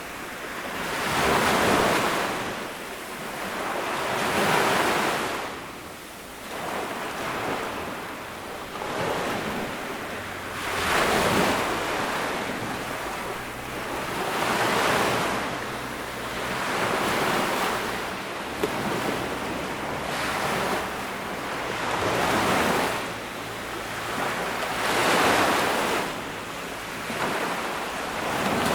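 Small ocean waves breaking and washing up on a sandy beach, the surf swelling and receding in a steady rhythm about every two to three seconds, with some wind on the microphone.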